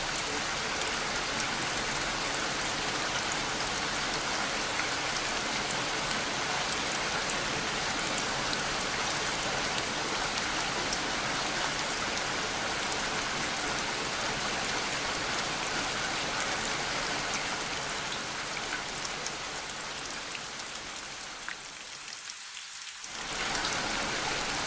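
Steady rain falling, with fine individual drops ticking over an even hiss. About 21 seconds in, the deeper part of the sound drops away for roughly two seconds, then the full rain comes back.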